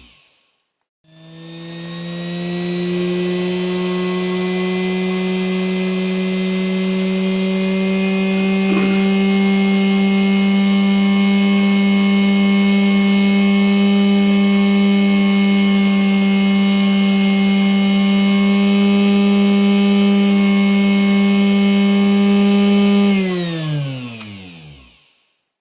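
Restored Singer 221 sewing machine motor tested at full speed: it starts about a second in, spins up, then runs with a steady whine, and near the end it is switched off and coasts down with falling pitch to a stop. A faint click is heard about nine seconds in.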